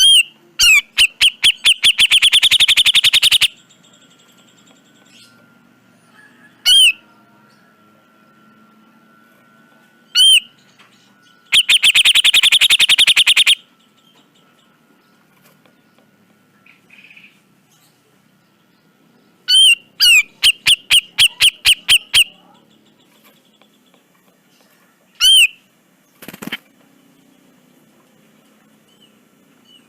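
Cucak jenggot (grey-cheeked bulbul) singing: loud single whistled calls that swoop up and down sharply, between three fast rattling runs of rapidly repeated notes lasting two to three seconds each.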